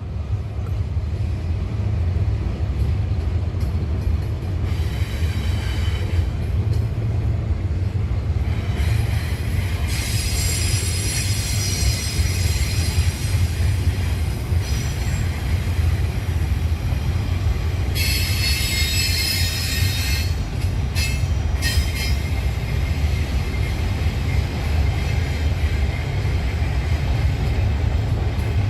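Freight train rolling past with a steady low rumble, and wheel flanges squealing in several high-pitched bursts, the longest about halfway through.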